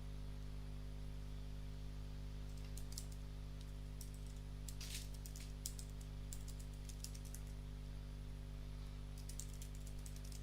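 Computer keyboard keystrokes: scattered single taps, then a quick run of typing near the end, over a steady low electrical hum.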